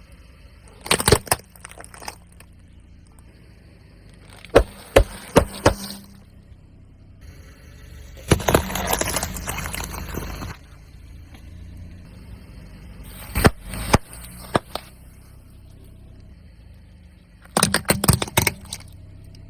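Car tyre rolling over and crushing objects: five separate bursts of cracking and crunching, the middle one longer and noisier than the rest, over the low steady running of the car's engine.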